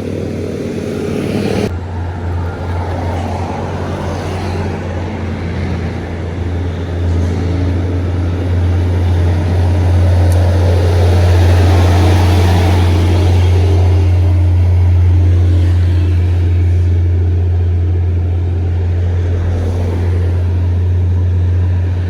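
A road vehicle passing close by over a steady low rumble: the noise swells to its loudest about halfway through, then slowly fades.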